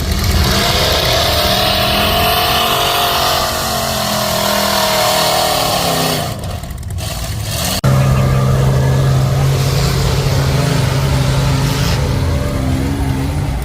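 Mud truck engine revving hard, its pitch climbing and then falling back over several seconds, followed by a sudden change to a steady, lower engine drone.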